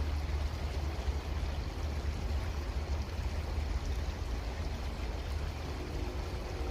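Creek water flowing steadily. Near the end a faint steady hum joins in.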